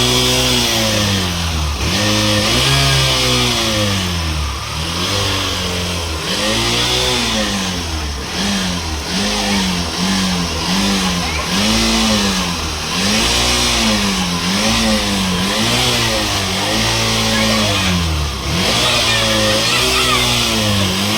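Hero Glamour single-cylinder four-stroke motorcycle engine being revved in repeated throttle blips, the note rising and falling about once every second or so without a break. It is an old bike whose engine, the rider says, is weak and needs a lot of revving to keep running.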